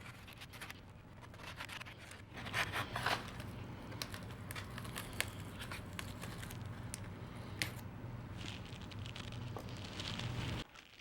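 Styrofoam layout base being carved away by hand, with irregular scratchy scraping and crunching, loudest about two and a half seconds in, and a few sharp clicks. A steady low hum runs underneath and cuts off suddenly near the end.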